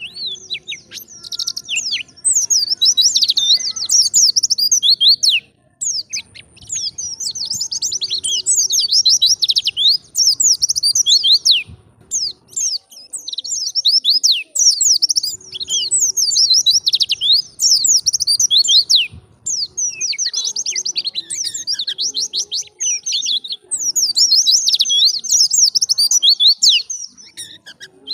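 White-eye (pleci) singing in its lively 'gacor' mode: long bouts of rapid, high-pitched twittering, each several seconds long, broken by brief pauses.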